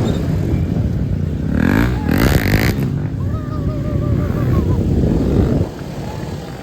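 Loud exhaust noise from a group of motorcycles and cars in a convoy, a dense engine rumble that surges about two seconds in. A warbling whistle-like tone rides over it for about a second and a half past the middle.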